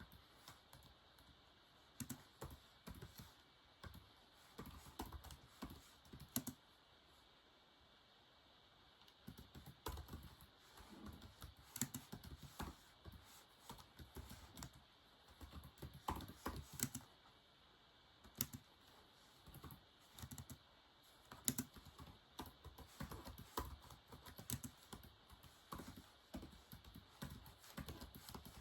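Typing on a keyboard in irregular bursts of quick key clicks, with a couple of short pauses, one about a third of the way in and another past the middle.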